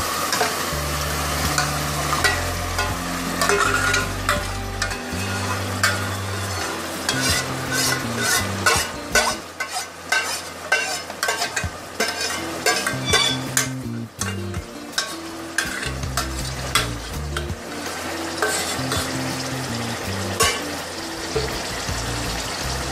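Yogurt-marinated goat liver sizzles as it is added to hot oil and fried onion-tomato masala in an aluminium pot. A metal spoon scrapes the mixture out of the bowl with many short clicks and scrapes against bowl and pot.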